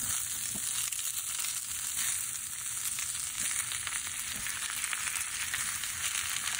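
Zucchini, squash and red onions sizzling steadily as they sauté in a hot skillet, with fine crackling all through.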